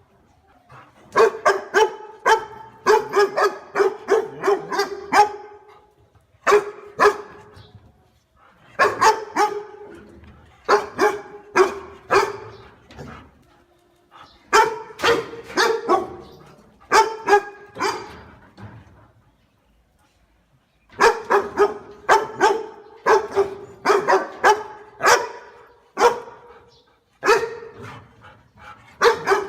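A dog barking in runs of quick, sharp barks, several a second, broken by short pauses.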